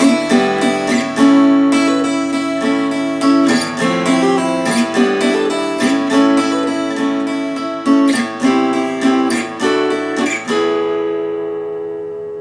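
Instrumental music: acoustic guitar strumming chords, with the last chord left ringing and fading near the end.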